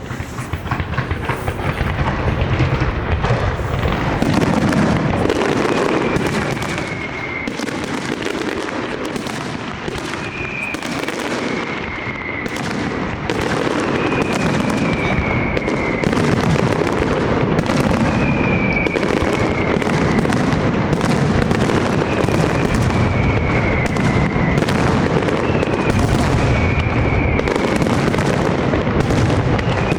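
Large castillo fireworks display: a dense, continuous barrage of bangs and crackle, with a short high whistle falling in pitch that recurs every few seconds.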